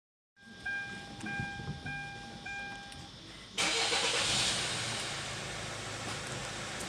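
A Hyundai ix35's dashboard warning chime sounds four times, then about three and a half seconds in the engine cranks and catches all at once, settling into a steady idle.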